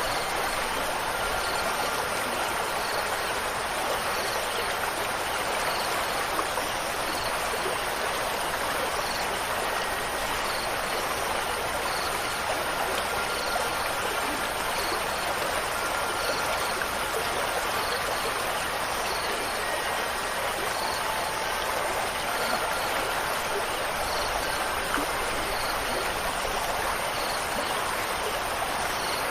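Steady rushing of a flowing stream, with a few faint wind-chime tones ringing now and then.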